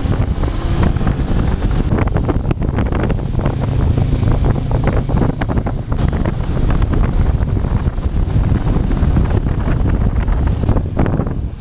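Heavy wind buffeting on a GoPro's microphone while riding a Honda CB500X motorcycle, with a low rumble from the bike underneath and bursts of crackling in the first half.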